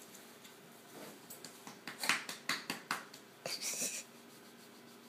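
A dog making a quick series of short breathy snorts and huffs, bunched between about two and four seconds in.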